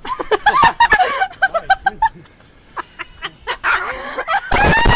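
Pet bird calling: a run of squawks and short quick chirps, then loud harsh screeches near the end.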